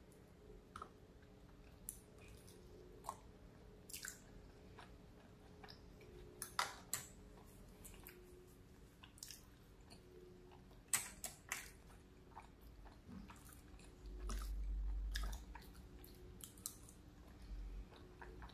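A person chewing and biting food, with many short, scattered wet mouth clicks. About fourteen seconds in there is a low rumble lasting about a second and a half.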